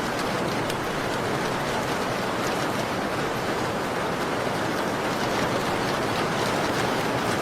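Steady heavy rain falling, with faint sharp crackles of a wood fire scattered through it.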